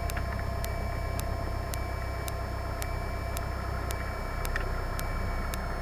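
Cessna 172 Skyhawk's engine running at taxi power, heard as a steady hum through the cockpit intercom, with faint ticks about twice a second.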